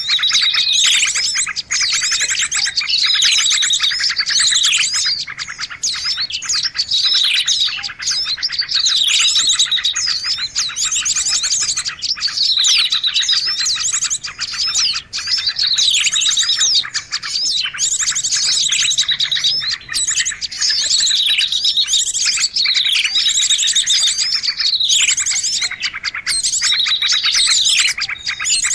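Bird-trapping lure recording of many small birds chirping and chattering together without a break. High calls sweeping down in pitch recur about every two seconds.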